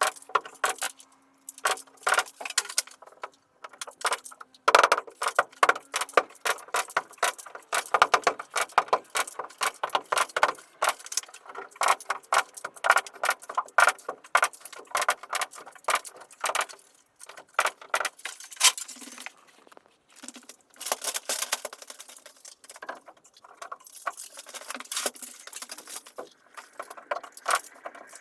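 Rapid clicking and clattering of carpentry work, with a few brief pauses.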